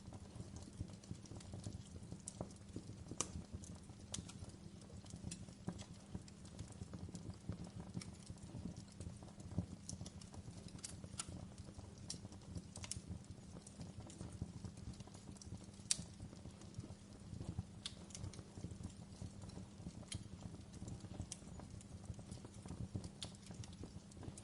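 Wood fire crackling in a fireplace: a steady low rumble of burning with irregular sharp pops and snaps, the loudest pop about 16 seconds in.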